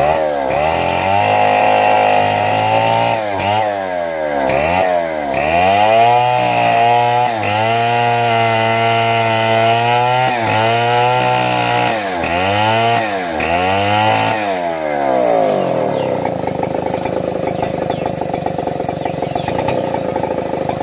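Two-stroke chainsaw running at high revs, its pitch dipping and recovering again and again as it bogs down in the cut. About fifteen seconds in it gives way to a steadier, rougher sound with no clear pitch.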